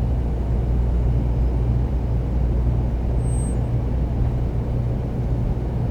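Steady low rumble and hum of a 300 series Shinkansen train running, heard inside the passenger car, with a brief faint high squeak a little past three seconds.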